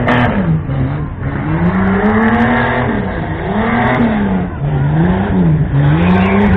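Tough-truck engine revving hard and dropping back in repeated surges, about five times in a row, as it is driven through the obstacle course.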